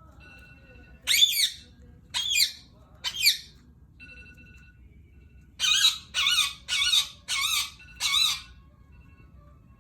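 Indian ringneck parrot giving harsh, wavering squawks: three spaced calls, then a quick run of five near the end.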